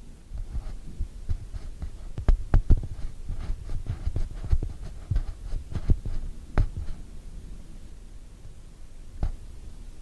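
Thunder from a nearby lightning strike: a rapid run of sharp cracks over a low rumble for about seven seconds, then a single crack near the end.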